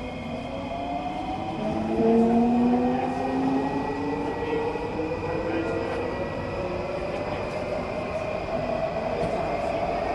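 Singapore MRT train heard inside the carriage as it picks up speed: the traction motor whine rises slowly in pitch over a steady rumble from the wheels on the rails.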